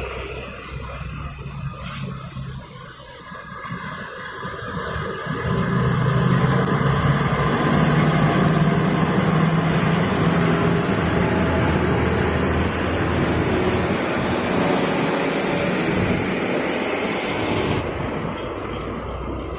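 Heavy truck's diesel engine and road noise, growing louder about five seconds in and then holding steady.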